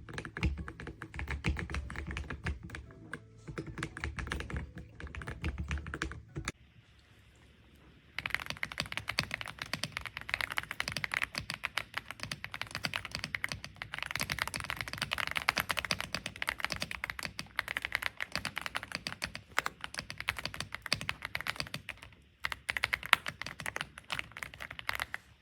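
Fast typing on an AULA F75 mechanical keyboard with pre-lubed Reaper switches: a dense run of key clacks. A low hum lies under the first few seconds. The typing stops about six and a half seconds in, then starts again after a short pause and carries on.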